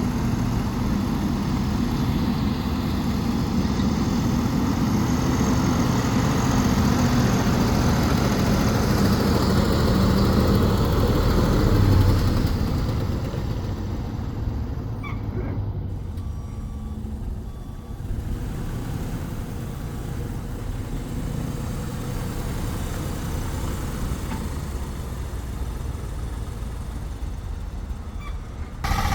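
A 2000 GMC C7500 bucket truck's 8-litre gas engine running, building to its loudest about twelve seconds in, then dropping back and running steadily at a lower level.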